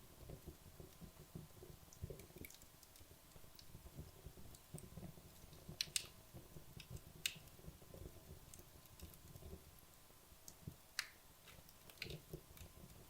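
Wood logs burning down in a fireplace: faint crackling with scattered sharp pops, the loudest about six and seven seconds in and again near eleven seconds, over a low soft flutter of the flames.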